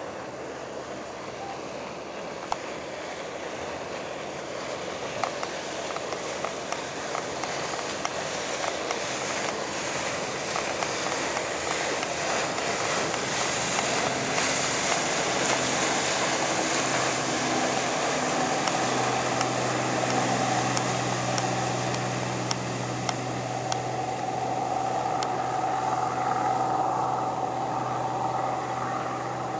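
Mitsubishi M6H-MTK 200 hp marine diesel running on a boat underway, with the rush of water and wind growing louder over the first half. A steady engine drone settles in a little past the middle.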